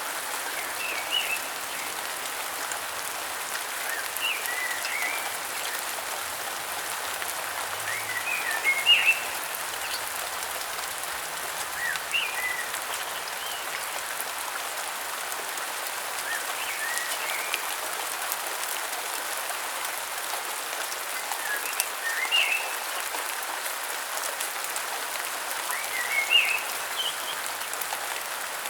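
Steady rain falling, with a bird repeating a short phrase of high chirps about every four seconds.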